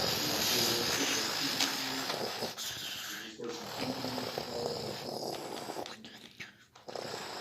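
Electronic toy car wash playset running its spinning-brush cycle: a loud, noisy whir that starts abruptly, dips briefly about three seconds in, and drops out again shortly before the end.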